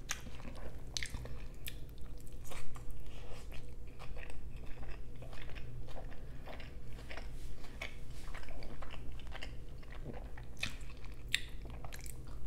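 Close-miked biting and chewing of shrimp and cheese pizza, with irregular crunches and short clicks throughout and one louder crunch a few seconds in.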